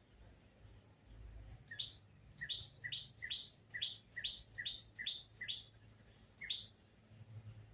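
A sunbird calling: a run of about ten sharp chirps, roughly two a second, each a short lower note followed at once by a higher one. The last chirp comes after a short pause.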